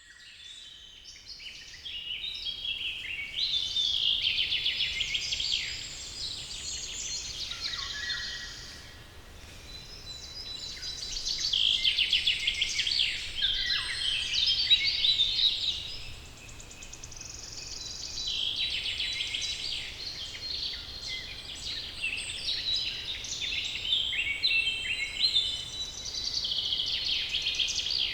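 Many songbirds singing at once in a forest chorus: rapid chirps, trills and whistles overlapping, swelling and fading in waves every few seconds, over a faint low steady background rumble.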